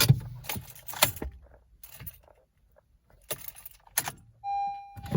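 Car keys jangling and clicking in the ignition of a Honda Civic Si before the engine is started, then a steady electronic tone sounding near the end.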